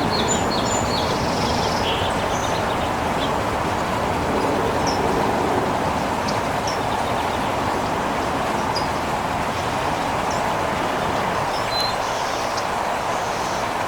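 A steady rushing background noise, like distant traffic, with short, faint bird chirps scattered through it.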